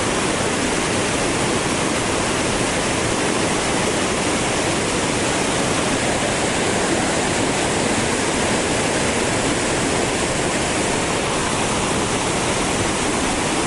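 Yudaki waterfall: a large cascade of water rushing down its rock face, a loud, steady, unbroken rush.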